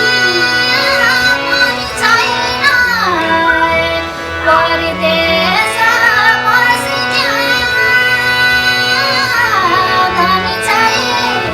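A woman singing a Nepali folk song in a thade bhaka melody in a high voice, with gliding, ornamented phrases over instrumental accompaniment.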